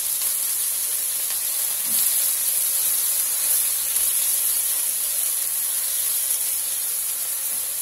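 Kale, chicken and tomatoes sizzling steadily in a frying pan while being turned with metal tongs.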